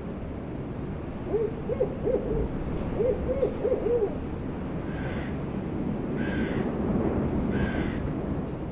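An owl hooting in two quick runs of short hoots, then a crow cawing three times, over a steady wind.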